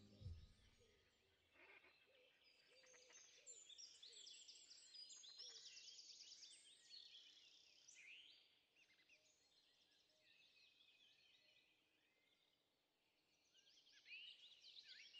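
Faint birdsong: several small birds chirping and trilling, busiest in the first half, with near silence between the calls.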